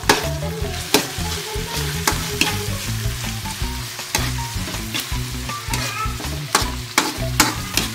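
Ground meat, onion and garlic sizzling in hot oil in a wok, with a metal spatula scraping and knocking against the pan at irregular intervals as the mixture is stirred.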